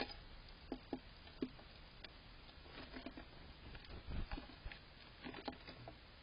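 Soft, irregular small taps and rustles, with a duller low thump about four seconds in.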